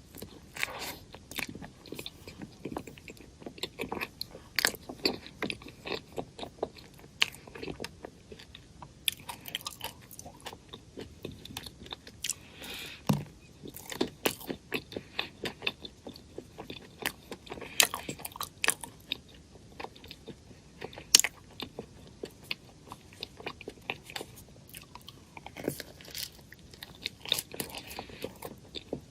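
A person biting and chewing a crunchy chocolate snack: an uneven, continuous run of sharp crunches and clicks, some bites louder than others.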